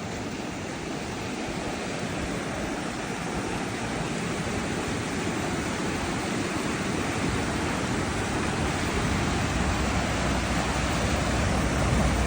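Rushing water of a mountain stream, a steady hiss that grows gradually louder, with a deeper rumble coming in near the end.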